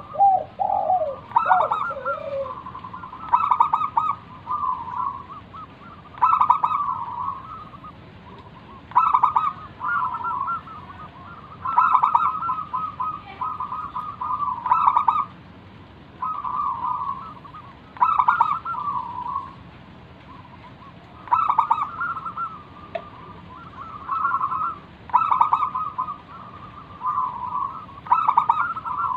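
Zebra dove (perkutut) singing its cooing song: short, rapid phrases of cooing notes repeated about every three seconds. A lower, falling call sounds in the first couple of seconds.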